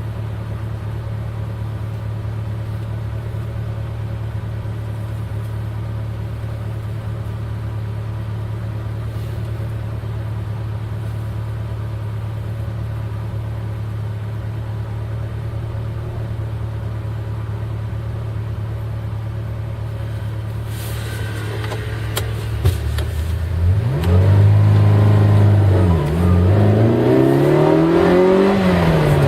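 Eight-cylinder car engine idling steadily, then, about 22 seconds in, revved several times, its pitch climbing and dropping with each blip and getting much louder.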